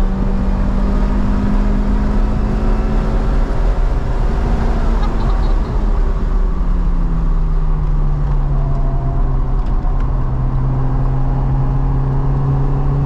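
Car engine heard onboard at speed on a race track: a steady high note that drops in pitch about halfway through as the car brakes at the corner marker, then climbs slowly again as it accelerates through the turn, over steady tyre and wind noise.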